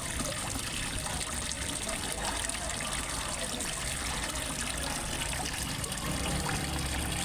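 Water trickling and splashing steadily into a fish pond from a small waterfall.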